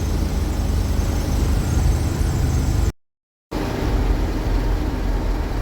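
Chrysler 318 V8 of a 1979 Winnebago Class A motorhome running steadily at cruising speed, a low engine drone mixed with road noise. It cuts to silence for about half a second a little past halfway, then resumes unchanged.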